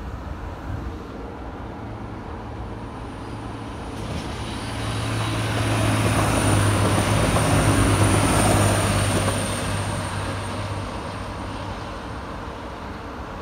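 TransPennine Express Class 185 diesel multiple unit passing over a level crossing. Engine and wheels on the rails build from about four seconds in, are loudest in the middle, then fade as the train runs away.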